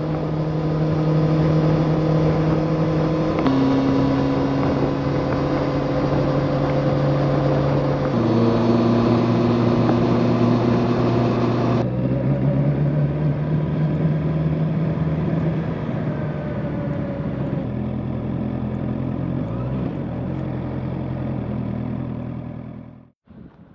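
Honda motorcycle engine running at a steady cruising speed under rushing wind noise. The pitch drops in sudden steps a few times, and the sound cuts off abruptly near the end.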